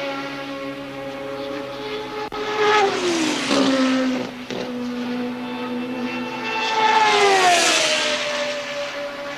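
1983 Formula One cars running at racing speed. Two of them pass close by about four seconds apart, each engine note dropping in pitch as it goes past, over the steady note of other engines.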